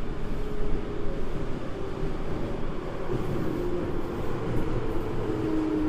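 Toei 5300-series subway train running, heard from inside the car: a steady rumble of wheels on rail with a faint motor whine. Near the end a lower motor tone comes in and falls slowly in pitch.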